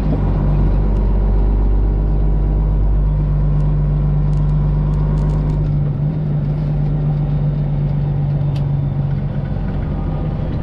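Straight-piped 12.7-litre Detroit Diesel engine of a Freightliner Classic XL semi truck running steadily on the road, a deep exhaust drone whose pitch shifts slightly about six seconds in.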